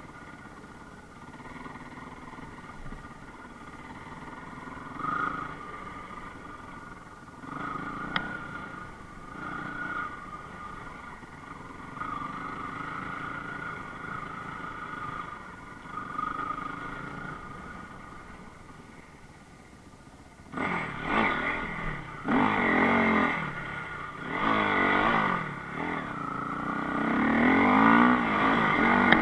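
Enduro motorcycle engine running at low, steady revs. About two-thirds of the way through it starts revving hard in repeated rising and falling bursts, getting louder toward the end.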